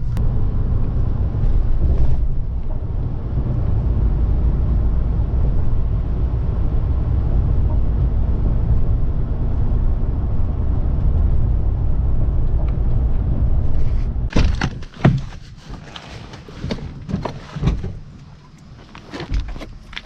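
Steady low rumble of a truck driving, heard from inside the cab. About fourteen seconds in it cuts off suddenly, leaving a quieter stretch with scattered knocks and thuds.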